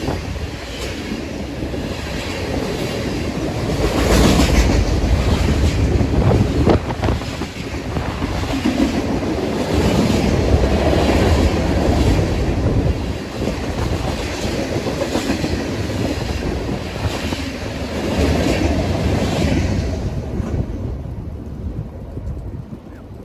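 A train rolling past, its wheels clicking over the rail joints in a regular clickety-clack over a steady rumble, fading away near the end.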